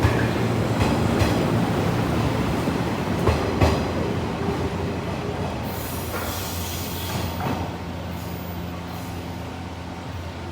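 Train running on the rails, a steady rumble with a few sharp clicks from the rail joints about three and a half seconds in. Its noise slowly fades over the second half, with a brief high squeal just past the middle.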